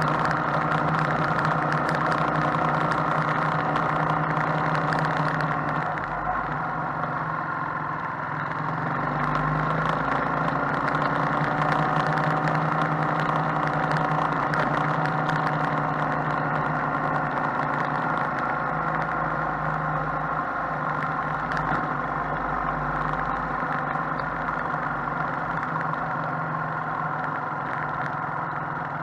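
Motorcycle engine running steadily while riding, its pitch shifting a little a few seconds in as speed changes.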